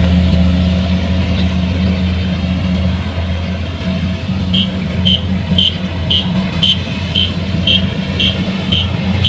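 Kubota combine harvester's diesel engine running steadily. About halfway in, a high-pitched warning beeper starts sounding in short, regular beeps, about two a second.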